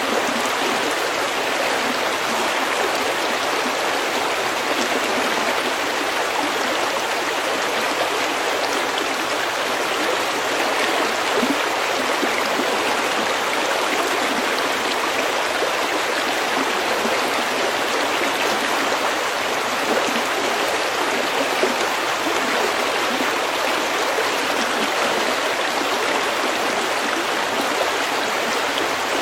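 Stream water running steadily over stones, a continuous even rush and babble.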